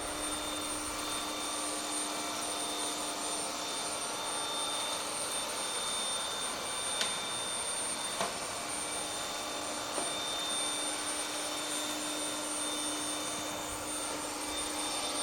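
Ecovacs Deebot N30 robot vacuum running steadily: a constant whir with a thin high whine. A few light knocks come about halfway through.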